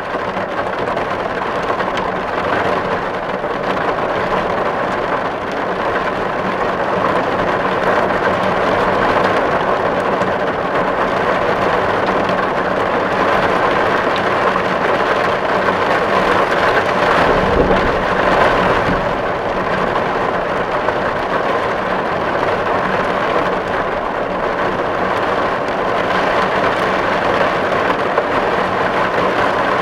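Steady heavy rain drumming on a tin roof, a dense even patter on the metal. A brief low rumble swells up about two-thirds of the way through.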